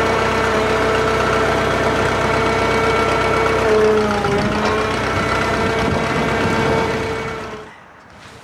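Drott 85RM2 crane's engine running steadily with a steady whine over it. The pitch shifts briefly about four seconds in, and the sound drops away sharply near the end.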